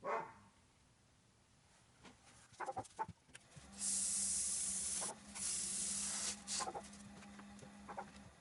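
A dog barks several times. About four seconds in, a wood lathe starts running with a steady low hum, and a high hiss comes from abrasive sanding paste being worked against the spinning wood.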